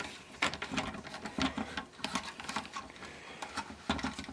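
Irregular small clicks and taps from handling plastic radio parts and components on a workbench.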